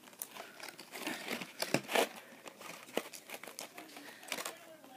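Packaging rustling and clicking as it is handled: irregular crinkles and small taps, with a louder burst of rustling about two seconds in.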